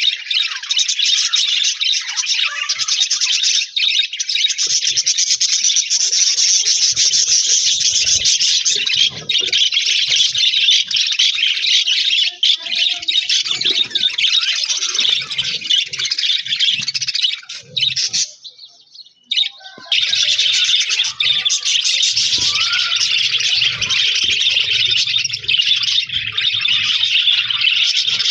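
A flock of budgerigars chirping and chattering continuously in a dense, high-pitched mass of calls. The chatter breaks off for a moment about two-thirds of the way through, then resumes.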